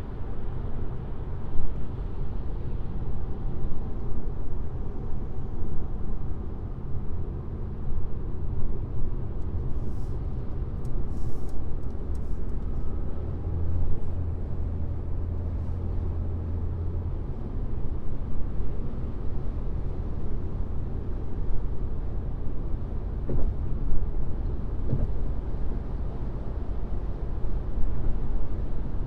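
Car driving on a highway: steady low road and tyre rumble, with a deeper hum swelling for a few seconds about halfway through and a few faint ticks just before it.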